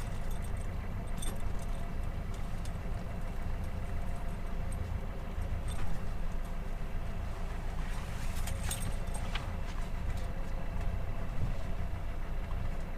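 A 40-foot sailboat's auxiliary engine running steadily at low speed while the boat is manoeuvred in to the dock, with a few sharp clicks about a second in and again around eight to nine seconds in.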